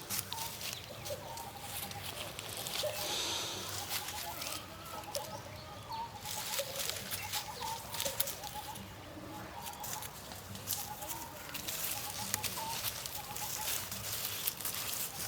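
Short bird calls repeated on and off, over scattered clicks and rustling.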